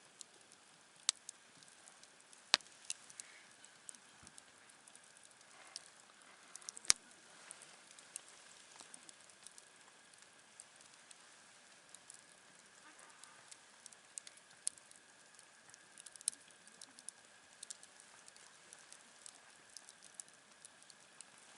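Campfire crackling: a soft hiss with irregular sharp pops and snaps from the burning wood, a few of them much louder than the rest.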